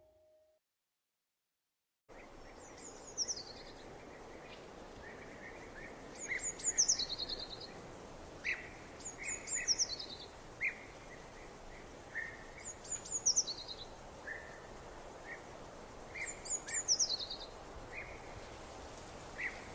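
A songbird repeating the same short, high, falling phrase about every three seconds, with softer lower chirps in between, over a steady outdoor hiss. It begins after about two seconds of silence.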